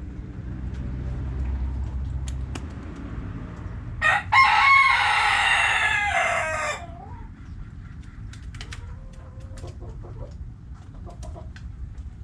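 A rooster crows once about four seconds in, a loud call of nearly three seconds that drops in pitch at its end. Hens cluck faintly around it.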